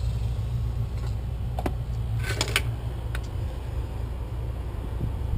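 A few light clicks and taps from handling a newly wired GFCI outlet while troubleshooting why it has no power: a single click, a quick cluster of clicks a second later, then one more. A steady low hum runs underneath.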